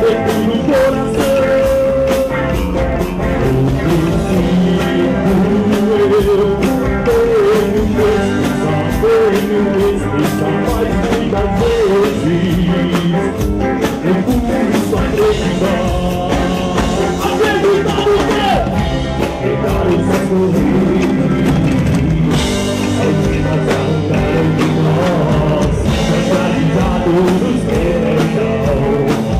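Live rock band playing: electric guitar, bass and drum kit, with singing over the top.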